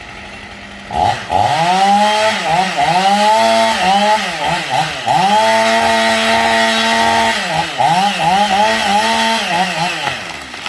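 A small engine revved in quick throttle blips, the pitch swooping up and down repeatedly, held at high revs for about two seconds in the middle, then blipped again and dropping away near the end.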